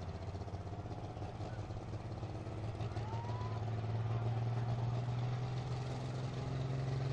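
Turbo-diesel pickup truck engine running steadily at low speed, growing a little louder about four seconds in.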